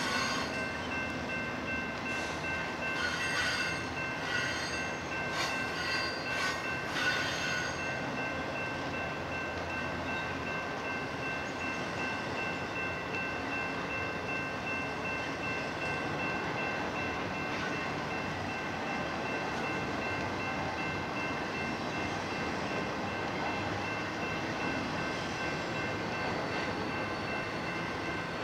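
Union Pacific freight train rolling past, its wheels on the rails making a steady rumbling noise with a steady high-pitched ringing tone over it. In the first several seconds there is a run of sharp clicks as wheels cross rail joints.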